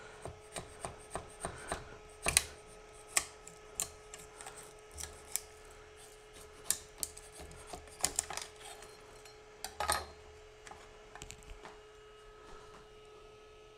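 Thin metal scraper blade scraping and clicking against a 3D printer's bed as a freshly printed plastic badge is pried up off the painter's tape; irregular sharp clicks and short scrapes, a few louder than the rest, over a faint steady hum.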